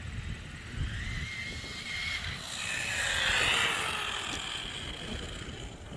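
Upgraded Xinlehong Q901 1/16-scale RC car running flat out on a 3S LiPo, the high whine of its Racestar 3900 kV brushless motor. The whine grows louder toward a peak about three and a half seconds in and drops in pitch as the car passes and moves away.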